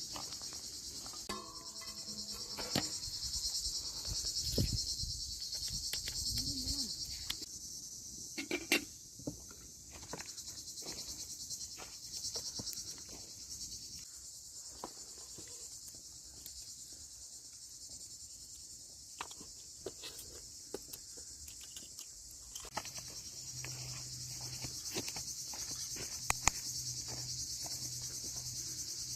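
Crickets chirping in a steady high-pitched drone, which thins out from about eight seconds in and comes back strongly near the end. Scattered short clicks and knocks sound throughout.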